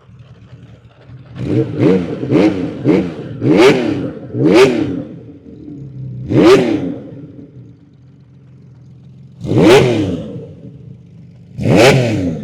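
1979 Honda CBX1000Z's air-cooled inline-six, breathing through an aftermarket six-into-six exhaust, idling and being revved. A quick run of about six throttle blips comes in the first few seconds, then three more spaced-out revs; each one rises and falls back in pitch to idle.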